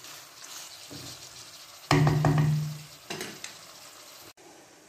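Beef and onions sizzling in a frying pan over a raised flame, stirred with a wooden spoon that scrapes the pan in several strokes. About two seconds in, a brief, loud, steady low-pitched hum sounds for under a second.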